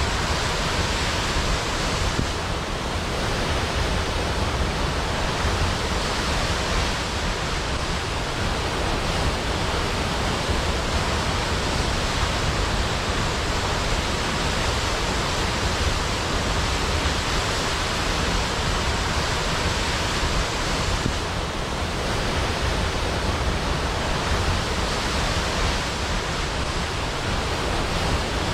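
Large waterfall pouring down a cliff into a pool: a steady, unbroken rush of falling water.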